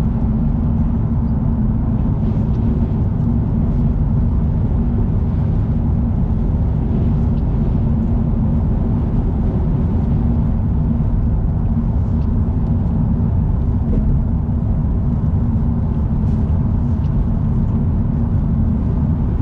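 Car travelling at expressway speed: a steady low rumble of road and engine noise.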